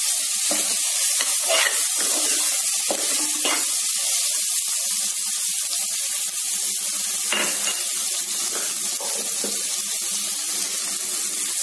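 Sliced shallots and crushed garlic sizzling in hot oil in an aluminium pressure cooker, a steady hiss, with a few scrapes of a metal slotted spoon stirring them.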